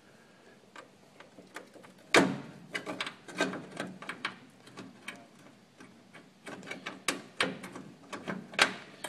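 Irregular knocks, clicks and clatter of a radiator fan shroud being handled and fitted against a truck's radiator, with two sharper knocks, one about two seconds in and one near the end.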